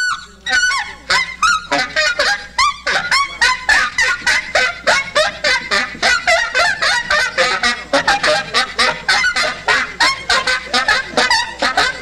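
A dense chorus of short honking calls, several a second and overlapping, each bending in pitch, with no let-up.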